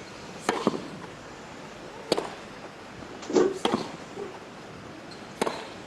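Tennis ball struck by rackets in a baseline rally: four sharp hits, roughly one every second and a half.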